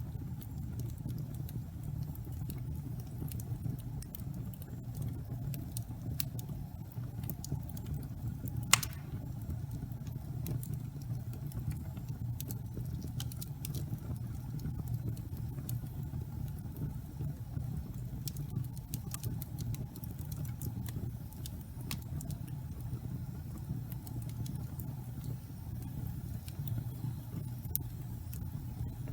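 Wood fire burning in a fireplace: a steady low rumble of flames with scattered small crackles, and one louder pop about nine seconds in.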